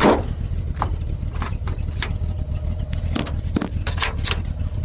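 Metal knocks and clacks from an old pickup truck's door or panel being worked shut: one hard knock at the start, then a string of lighter clacks. Under them runs a low steady rumble.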